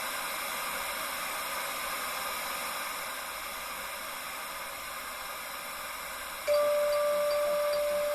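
Steady electronic hiss, like white noise with the low end cut away. About six and a half seconds in, a louder, steady electronic tone comes in on top, with a fainter higher tone briefly above it.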